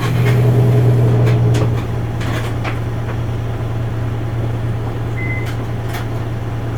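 Isuzu Erga Mio city bus's diesel engine heard from inside the cabin, pulling harder for about the first two seconds and then settling to a steadier drone, with interior rattles and clicks. A short high beep sounds about five seconds in.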